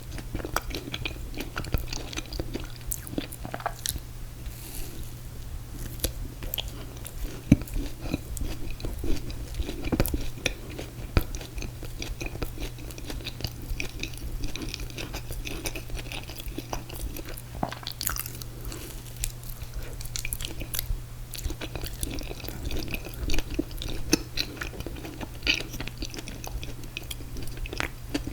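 Close-miked chewing and biting of ice cream cake: wet mouth sounds with many small irregular clicks and the odd crunch, over a steady low hum.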